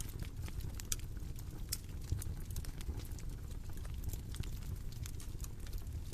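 Bonfire crackling: a steady low rumble of burning with irregular sharp pops and snaps, the loudest pop right at the start.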